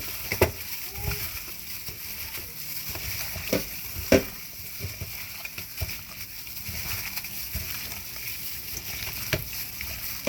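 Raw chicken being mixed by hand with wet seasoning in a bowl: soft squelching and sloshing, with a few sharp knocks against the bowl.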